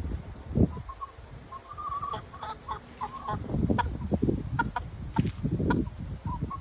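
Backyard chickens clucking in short, repeated notes, over a low rumbling noise.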